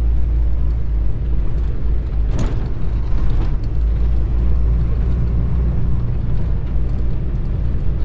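Semi truck's diesel engine and drivetrain running at low speed, a steady low rumble heard from inside the cab. A short burst of noise cuts through about two and a half seconds in.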